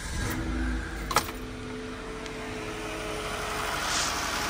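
Kia V6 engine starting on a newly fitted starter motor and fresh battery, catching and then idling steadily. A sharp click about a second in.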